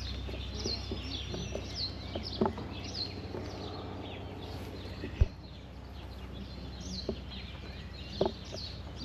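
Small birds chirping over and over, short high chirps that fall in pitch, with a few sharp knocks, the loudest about five seconds in.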